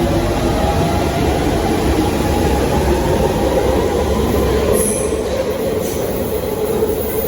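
Electric passenger train moving along the platform, its wheels rumbling steadily on the rails, with short high wheel squeals about five and six seconds in.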